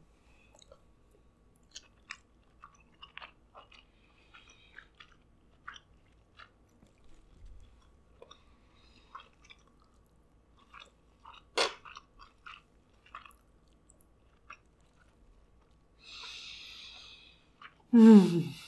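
Close-up wet chewing and soft mouth clicks of a person eating king crab meat with rice, with one sharper click about halfway through. A short breathy rush of air comes near the end, followed by a loud falling "mmm" of enjoyment.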